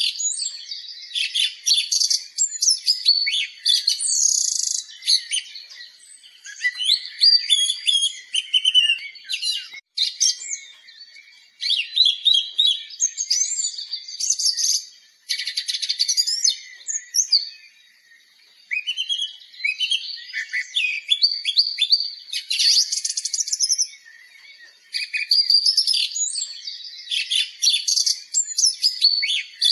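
Birds singing in phrases of varied chirps and trills, with short pauses between phrases.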